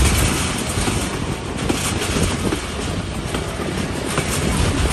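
Hazara Express passenger train running along the track: a steady rumble and rattle of wheels and carriages, with scattered short knocks.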